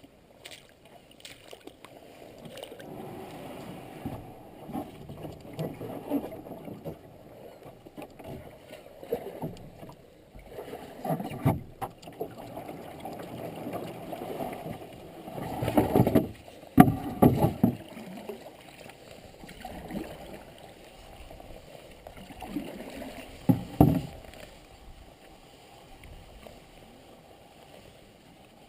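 Canoe being paddled: uneven water splashing and sloshing from paddle strokes, with a handful of louder splashes or knocks in the middle.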